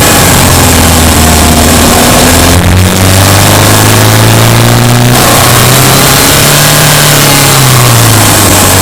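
Subaru Impreza Sport's 2.0-litre boxer four-cylinder engine running under varying throttle while driving. The engine note briefly drops about three seconds in, climbs steadily, then rises and falls again near the end.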